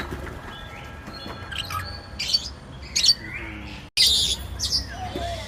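Birds squawking and chirping in a series of short, high calls over a low background rumble. The sound cuts out for an instant just before four seconds in.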